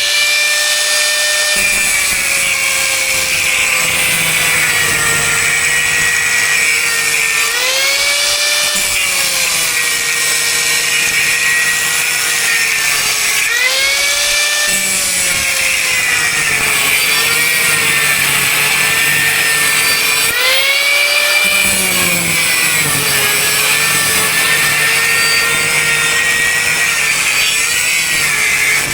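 Angle grinder with a cut-off disc running continuously through steel, its motor whine steady under load. Three times the whine rises briefly as the disc is eased off the cut, then drops again as it bites back in.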